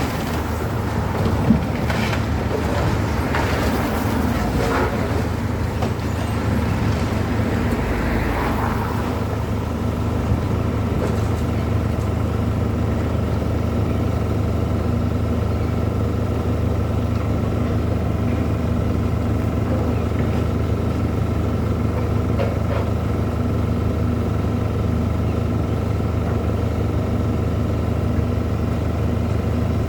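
A steady low engine drone, with some passing vehicle noise in the first ten seconds.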